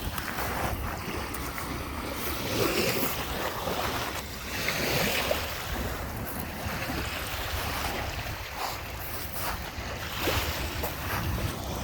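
Small Lake Michigan waves washing onto the beach in repeated swells, with wind buffeting the microphone as a low rumble.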